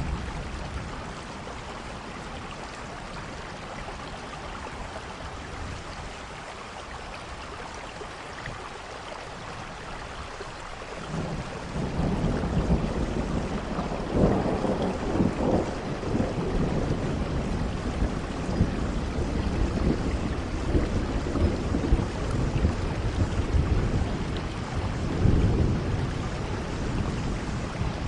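Steady rain falling, joined a little before halfway by a long rolling rumble of thunder that swells and fades twice.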